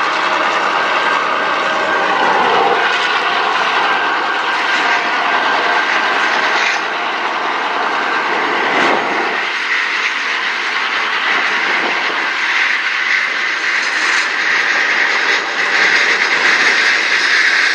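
Clyde EMD 49 class diesel locomotives running under power as they draw away, their engine sound giving way about halfway through to the steady rolling rush of grain hopper wagons' wheels on the rails.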